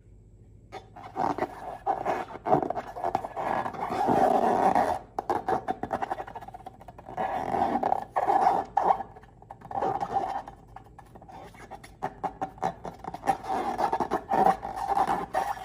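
Long rubber balloons being squeezed and rubbed, squeaking and creaking in irregular bouts about a second long, with crackling between them.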